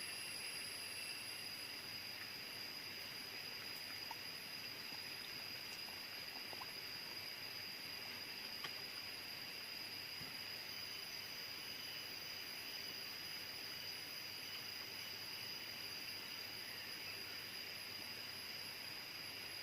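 Steady chorus of jungle insects: a constant high-pitched drone of several even tones over a faint hiss, with a couple of small clicks.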